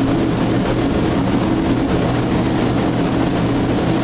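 Steady machine drone with a constant low hum, running evenly without change.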